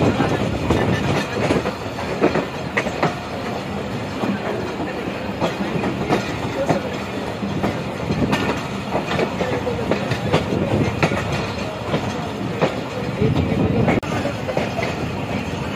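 Passenger train running, heard from aboard a carriage: a steady rumble with frequent sharp clacks of the wheels over the rail joints.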